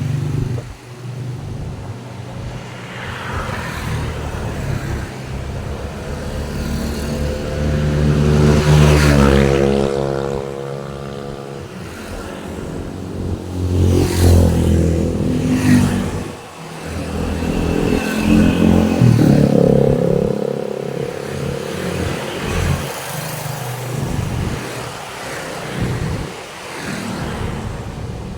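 Road traffic: a string of vehicles driving past, each engine swelling and fading as it passes. The loudest passes come about nine, fourteen and nineteen seconds in.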